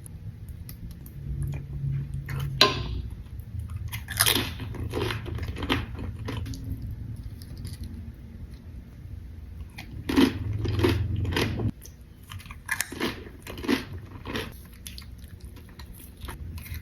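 Close-miked chewing and crunching of nacho tortilla chips: irregular crisp bites and crunches over the steady sound of chewing.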